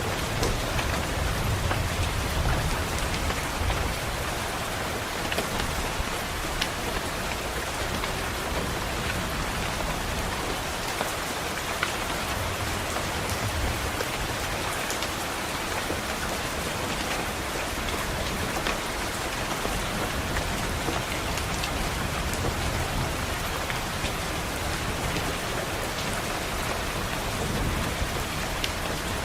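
Steady rain falling and pattering on a window, a continuous even hiss with scattered drop ticks. A low rumble of distant thunder swells in the first few seconds and again near the end.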